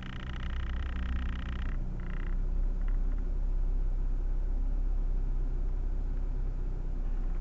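Steady low rumble of a car's engine and road noise. Over it, a rapid pulsing high chirp stops abruptly under two seconds in, and a brief chirp follows about two seconds in.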